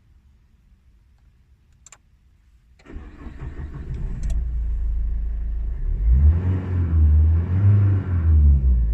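Nissan Micra's 1.5 dCi diesel engine cranking and starting about three seconds in, then running and being revved twice.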